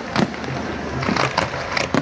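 Fireworks going off: a string of sharp bangs and crackles, several within two seconds.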